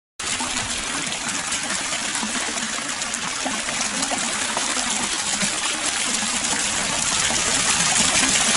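Hot-spring water flowing continuously into an open-air footbath, a steady splashing gush that gets a little louder toward the end.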